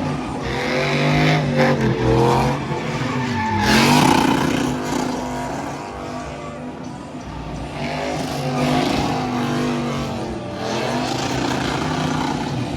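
Truck engines revving up and down hard, with tires squealing and skidding, as trucks swing donuts in a show pit; the revving is loudest about four seconds in.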